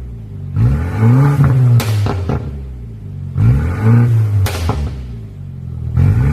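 BMW 428i's turbocharged four-cylinder free-revved three times. As the first two revs drop back, a short burst of sharp exhaust pops and crackles follows, from an ECU pop-and-crackle tune.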